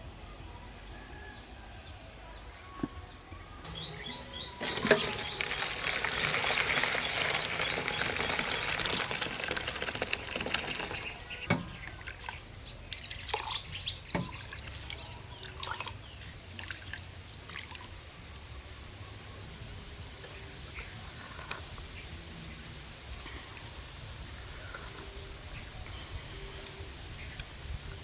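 Outdoor ambience with a bird chirping repeatedly in a high, even series. About four seconds in, liquid pours for several seconds. A few light knocks come after it.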